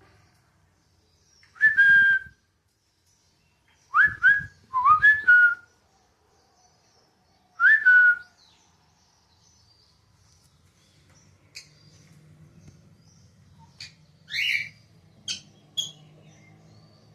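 Loud, clear whistled bird calls: one note, then three in quick succession, then one more, each a quick upward slide into a short held tone. Later come a few short, sharp, higher chirps over a faint low hum.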